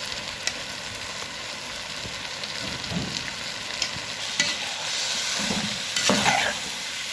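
Onion-and-tomato masala sizzling in hot oil in a pan while being stirred, with a few sharp clicks and scrapes of the spoon against the pan, the loudest a little after six seconds in.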